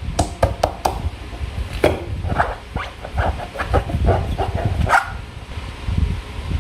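Slime being handled by hand, giving an irregular run of short wet clicks and squelches.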